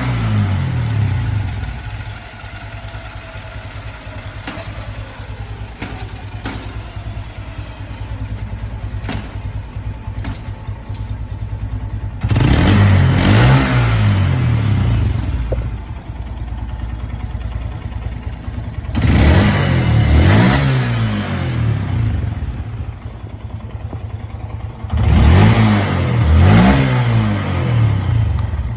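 2022 Honda Grom's single-cylinder four-stroke engine idling, its revs falling back at the start, then blipped up three times, each time with two quick rises and falls in pitch before settling back to idle.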